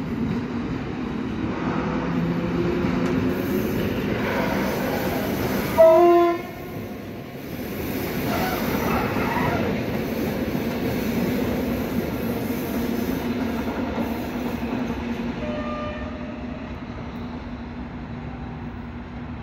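Blue electric commuter train running out of a tunnel and past, its wheels and motors making a steady rumble; about six seconds in it gives one short, loud horn blast, and the rumble eases as it moves away near the end.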